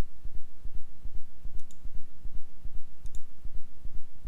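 Computer mouse clicking, twice in quick pairs, while knife-tool cuts are made, over a steady low thumping at about three a second.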